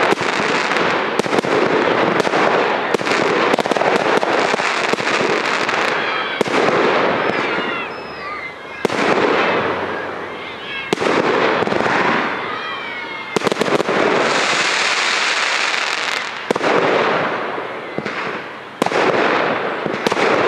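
Aerial fireworks display: shells bursting with sharp bangs every few seconds over continuous dense crackling of glittering stars.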